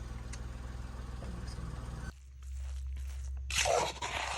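Steady low rumble that changes abruptly about two seconds in, with a brief loud rustling burst near the end.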